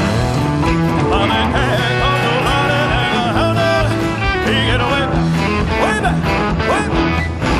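Live rock-and-roll band playing loudly: electric guitar over bass and drums, with a lead line of gliding, bending notes from about a second in.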